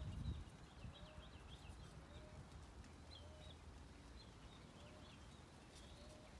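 Birds singing faintly: short high twittering phrases, with a low short note repeating about once a second. A few low thumps in the first half-second.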